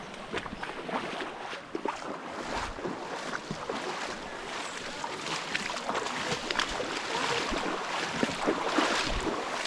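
Steady rush of flowing stream water, with scattered small knocks and steps on rocks.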